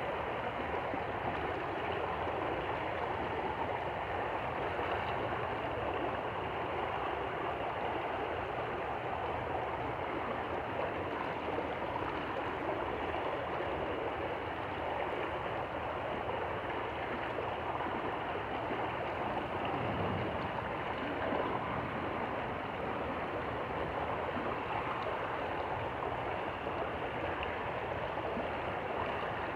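A stream flowing with a steady, even rush of water.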